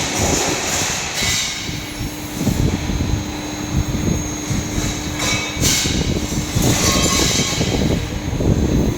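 CNC fiber laser cutting machine running, with a constant low rumble and a steady hum through the middle of the stretch. Short bursts of hiss come and go, the clearest one about halfway through.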